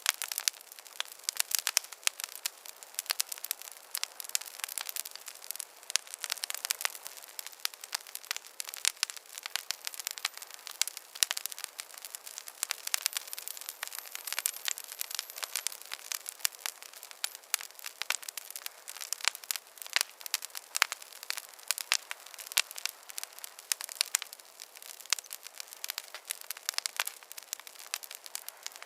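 Wood fire crackling in a fireplace: constant irregular pops and snaps over a soft hiss.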